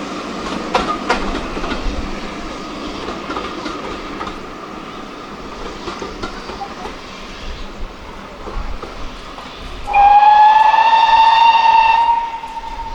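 A train running on the line, with sharp wheel clicks over rail joints early on that fade to a steady rumble. About ten seconds in, a locomotive sounds one loud, high whistle for about two seconds, its pitch rising slightly as it starts.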